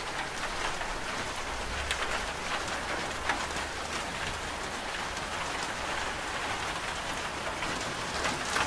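Steady rain falling on a surface, with scattered sharp drop taps and a faint low washing-machine hum underneath for most of it.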